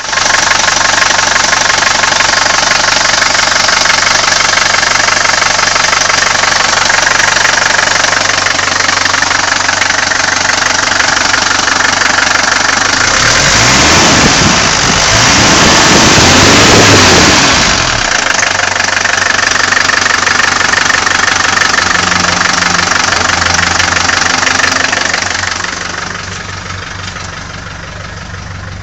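Mercedes-Benz W123 240D's 2.4-litre four-cylinder diesel engine idling with its typical diesel clatter. About halfway through it is revved up and back down twice, then settles to idle, sounding quieter near the end.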